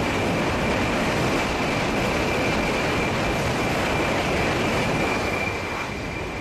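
Shinkansen bullet train passing at speed, a steady rush of noise with a thin high whine held throughout, easing off a little near the end.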